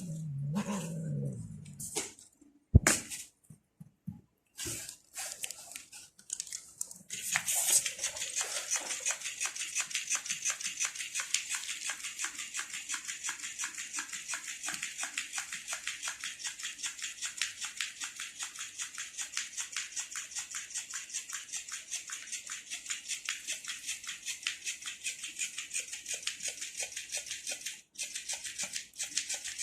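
A cat eating, making rapid, regular wet mouth clicks at about five a second that start around seven seconds in and run on steadily. Before that come a few separate knocks, the sharpest about three seconds in.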